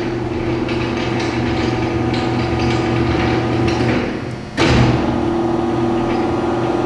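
Powered-up Timesavers 3-head wide belt sander humming steadily, with one sharp clunk about four and a half seconds in.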